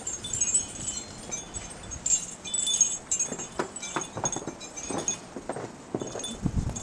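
Light metallic tinkling: short, irregular high ringing notes, with a few soft knocks and low rumble in the second half.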